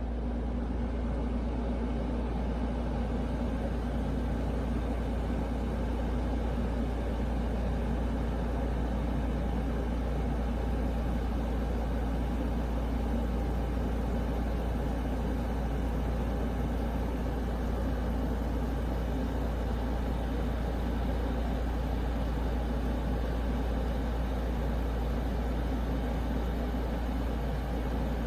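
2013 Kenmore 10,000 BTU window air conditioner running on low fan speed. It gives a steady low hum with a whoosh of moving air, filling out slightly at the start.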